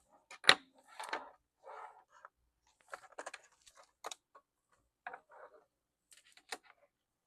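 Scattered clicks, taps and light scrapes of a screwdriver and hands working on the plastic underside of a Lenovo T430 laptop while its back is taken off, with one sharp click about half a second in.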